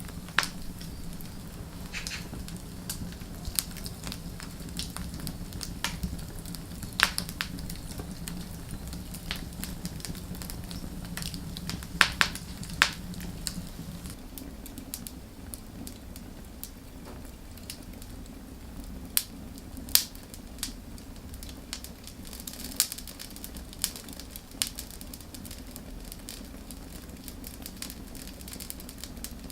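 Firewood burning, with irregular crackles and pops scattered through it and several sharper snaps. A steady low hum runs underneath.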